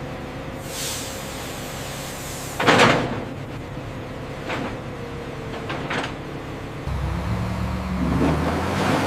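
Heavy lifting machinery running with a steady low drone, with a hiss about a second in, a loud metallic knock about three seconds in and a few lighter clanks after it. A deeper engine note grows louder near the end.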